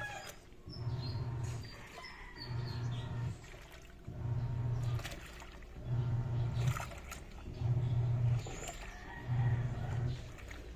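Haier automatic washing machine agitating in a wash cycle: the motor drives the pulsator in short strokes, a low hum that starts and stops about once a second as the drum reverses. Birds chirp faintly in the background.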